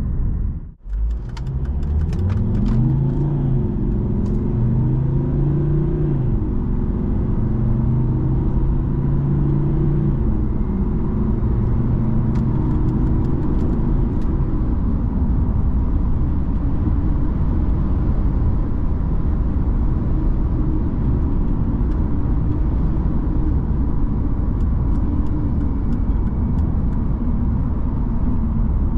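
Volvo S60 engine under hard acceleration from a standstill to 100 km/h, heard inside the cabin. The note rises in pitch through the gears with a drop at each shift, then settles into steady highway cruising with tyre and wind rumble from about halfway.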